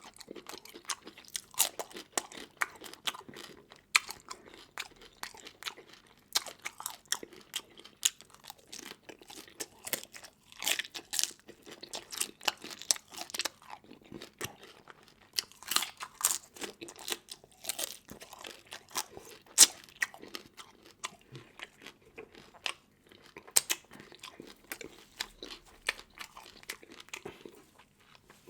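A person eating seafood: chewing with frequent sharp, irregular crunches.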